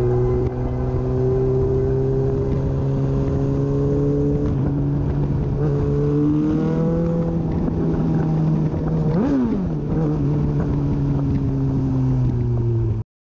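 Sport bike engine running at a steady part throttle, heard onboard over wind rush, its pitch drifting slowly up and down. About nine seconds in the revs drop and climb back, as with a gearshift or throttle blip, and near the end the sound cuts off abruptly.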